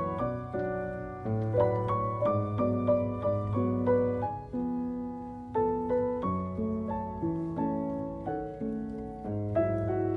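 Background piano music: notes struck one after another in a flowing line over held low bass notes.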